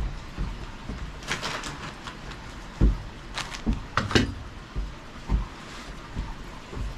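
Irregular low thumps and knocks, with a few short rustling or scraping sounds between about one and four and a half seconds in.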